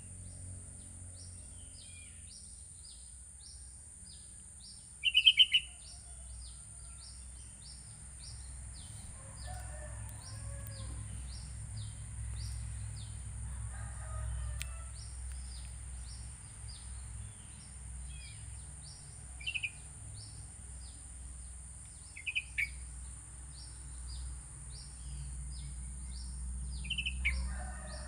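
Sooty-headed bulbul (kutilang) giving short, loud chirping phrases four times, over a steady run of faint high ticks about two a second. A rooster crows faintly twice in the middle and once near the end.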